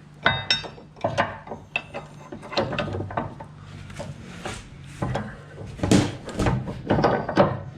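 Steel parts of a Bobcat 753 quick-attach pin assembly being handled and fitted with a bolt: irregular clicks, clanks and knocks, with a ringing metallic clink near the start, over a steady low hum.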